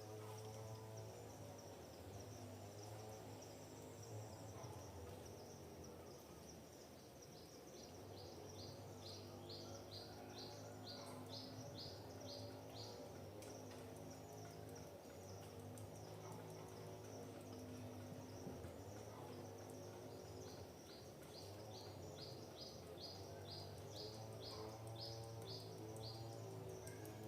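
A bird sings two runs of about a dozen short, quick high notes, the first about a third of the way in and the second near the end, over a steady high insect trill and a faint low hum.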